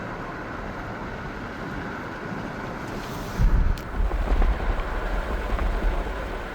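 Passenger railway coach in motion: a steady running noise of the car riding along the rails. About three and a half seconds in, low rumbling buffets of wind on the microphone set in.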